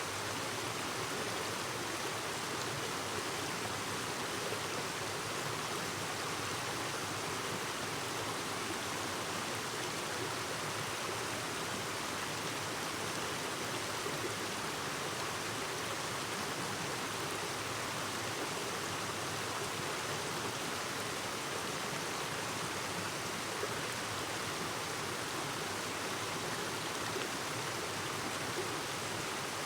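Clear mountain stream babbling and rushing over rocks, a steady even flow of water.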